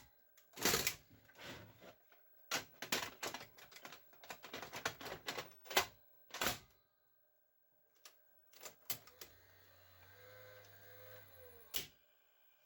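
Panasonic PV-1200 VCR's mechanism and controls clicking and clattering, then its motor runs with a steady hum for about three seconds, sagging in pitch as a sharp clunk stops it. The machine is being tried with a freshly boiled drive belt.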